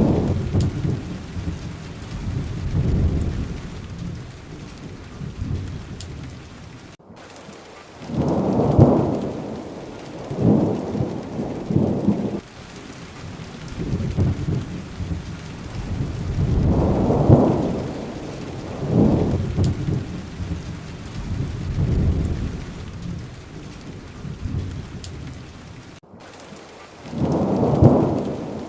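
Steady rain with repeated low rolls of thunder that swell and fade every couple of seconds. The whole sound cuts out for an instant twice, once about a quarter of the way in and once near the end.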